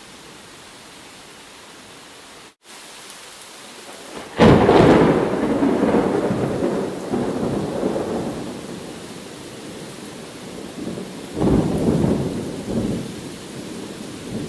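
Steady rain with two rolls of thunder: a sudden loud one a little over four seconds in that fades slowly, and a weaker one about three seconds before the end. The rain hiss cuts out for an instant shortly before the first.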